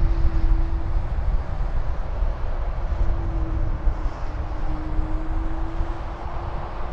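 Jet airliner rumbling in the distance, an Airbus A321neo, with wind buffeting the microphone; a faint steady hum fades in and out over it.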